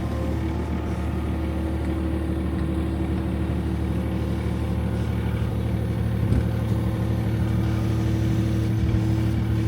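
A vehicle engine running steadily at an even speed, with one brief knock about six seconds in.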